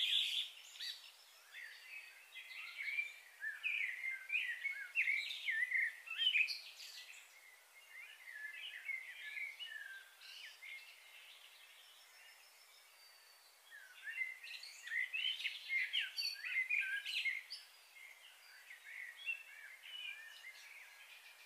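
Songbirds chirping and calling, several at once, in busy stretches with a quieter lull about halfway through.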